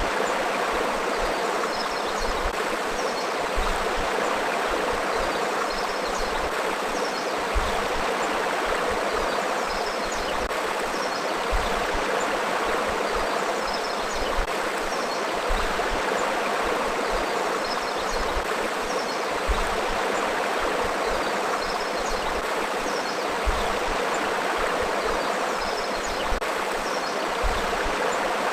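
Forest river flowing: a steady, even rush of running water with no pauses.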